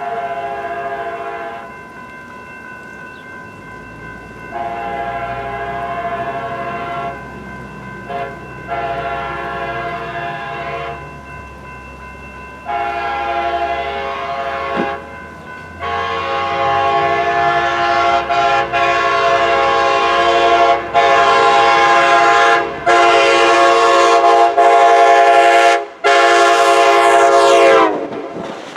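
Approaching train's multi-chime air horn sounding a series of long and short blasts, growing louder, then one long blast whose pitch drops as the train passes near the end, over the locomotive's low rumble.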